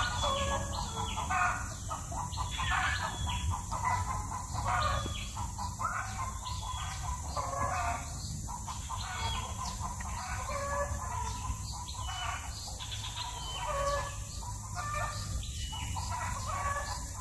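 Birds calling with many short, rapidly repeated calls, over a steady low rumble.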